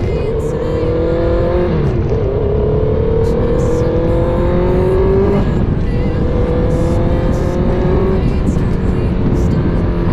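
Honda CBR650R's inline-four engine through a full aftermarket exhaust, accelerating through the gears: the pitch climbs steadily and drops sharply at each of two upshifts, under a heavy rush of wind noise.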